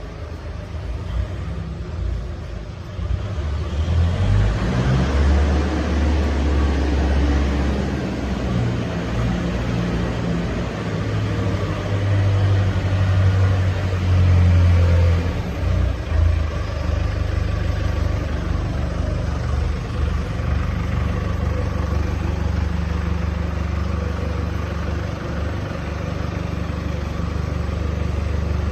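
Diesel engine of a portable rotary screw air compressor running steadily, a low hum that grows louder about four seconds in and peaks about halfway through.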